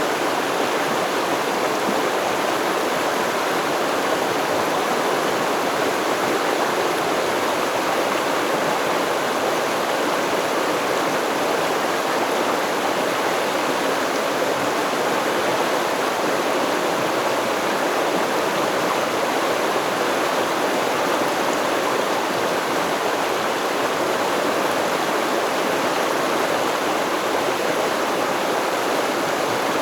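River stream water flowing steadily, an even rush of water without breaks or changes.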